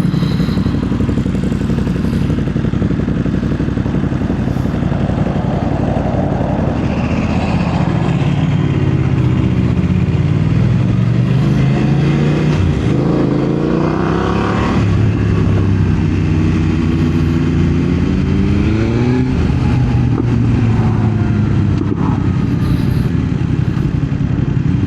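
BMW motorcycle engine under way, pulling up through the revs twice in the middle of the stretch with a drop between, as in gear changes, over a steady rush of wind and road noise.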